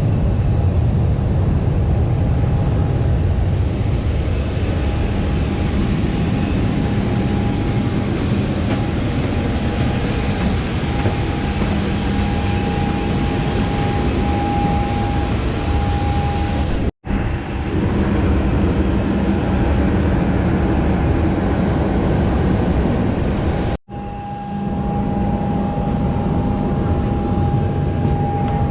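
Loud, steady aircraft engine noise with a high, constant whine over a low rumble. It drops out abruptly for a moment twice, about 17 seconds in and again near the end.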